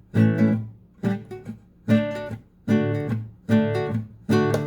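Acoustic guitar strumming six short chords, about one every 0.8 s, each cut off by the side of the right hand laid across all six strings. The muting gives a choppy, percussive sound.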